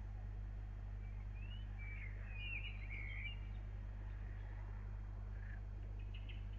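Small birds chirping, a cluster of short rising and falling calls about two to three seconds in, over a steady low hum.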